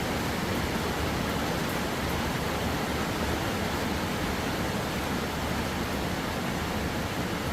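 Steady rain falling: an even, unbroken rush of noise with no separate drops or pauses standing out.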